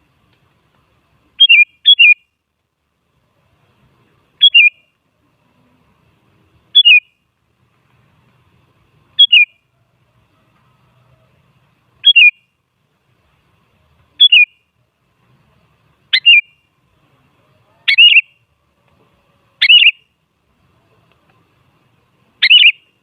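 Sooty-headed bulbul (kutilang) giving short, sharp calls, one every two to two and a half seconds. The first is a quick double, and the calls near the end are the loudest.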